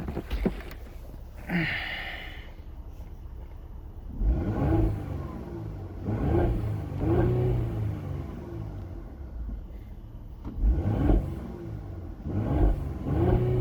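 Mercedes-AMG GLE 43's 3.0-litre twin-turbocharged V6 revved in several short blips, its pitch rising and falling each time over a steady idle.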